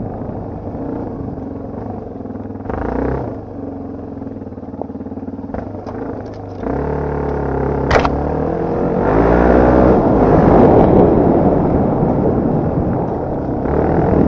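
Dirt bike engine running and revving up and down as it is ridden, with a sharp knock about eight seconds in, then revs climbing and getting louder.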